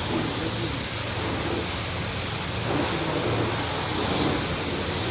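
High-pressure wash wand spraying at a self-serve car wash bay: a steady hiss with a low hum underneath.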